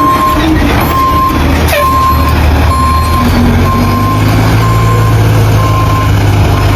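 Fire engine backing up: its reversing alarm beeps about once a second over the steady low rumble of the diesel engine, which gets louder a few seconds in. A brief falling squeal sounds about two seconds in.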